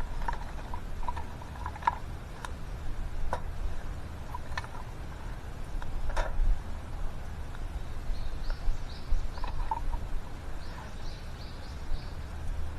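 Scattered light clicks and knocks, the loudest about halfway through, over a low steady rumble. A small bird twice sings a quick run of high repeated chirps, about two-thirds of the way in and again near the end.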